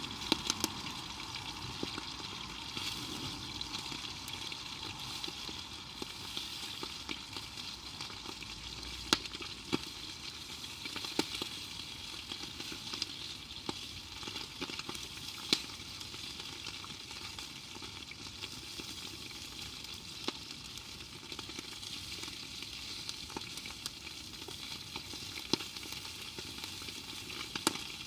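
Food frying in a pan over a campfire: a steady sizzle with occasional sharp pops.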